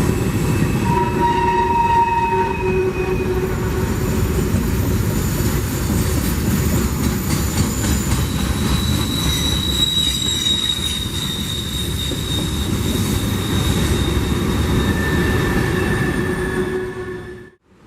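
Freight train rolling past close by, a steady rumble and rattle of cars with wheels squealing in several high whining tones that come and go. The sound cuts off suddenly near the end.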